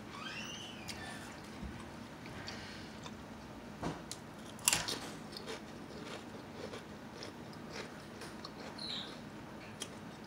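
Potato chips being bitten and chewed close to the microphone: scattered small crunches, with two sharper bites about four and four and a half seconds in, the second the loudest.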